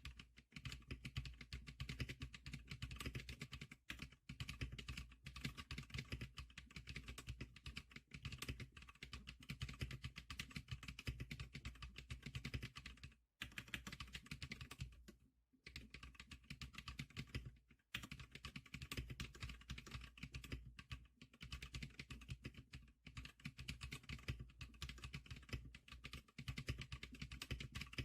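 Typing test on a Zikliker SPK100 keyboard: fast, continuous key clicking, with a few short pauses.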